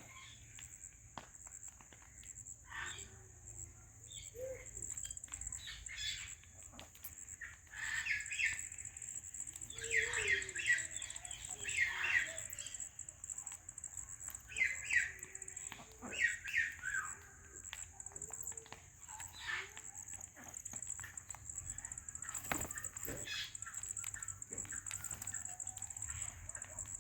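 Alexandrine parrots giving short chattering calls and squawks in clusters, busiest in the middle stretch, over a steady high-pitched hiss.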